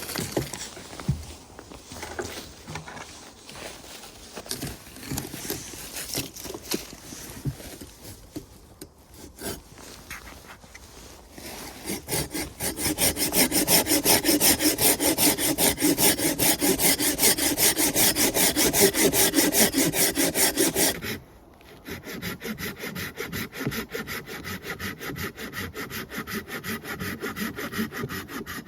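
Hand saw cutting firewood, in steady back-and-forth strokes. The sawing starts loud about twelve seconds in after some quieter scattered handling noises, breaks off briefly about two-thirds of the way through, then goes on more softly.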